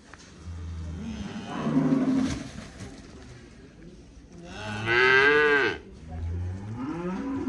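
Dairy calves mooing, about three drawn-out calls that bend in pitch, the loudest a little past the middle.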